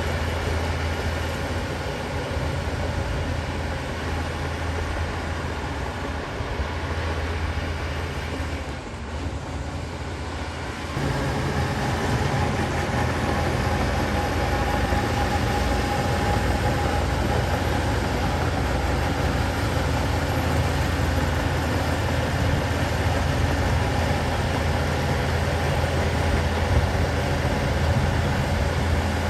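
Diesel engine of a Shantui DH17 bulldozer running steadily, with a brief dip around eight to ten seconds in and a step up to a louder, fuller sound about eleven seconds in.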